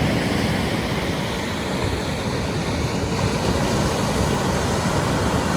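Steady outdoor beach noise: wind buffeting the microphone over the rush of surf, heaviest in the low end.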